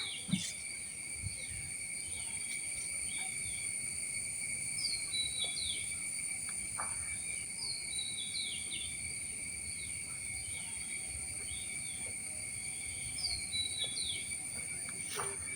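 Steady high-pitched drone of insects, with a bird repeating a short phrase of falling chirps every three to five seconds.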